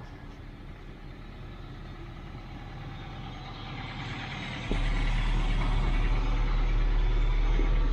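Toyota MR2 Roadster's 1.8-litre four-cylinder engine idling while it warms up after a cold start. The exhaust grows slowly louder, then jumps to a much louder, deeper note about two-thirds of the way through.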